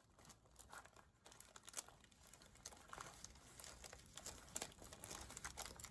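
Faint crinkling and small crackles of plastic peel-and-stick shelf liner and paper being folded over and pressed down by hand.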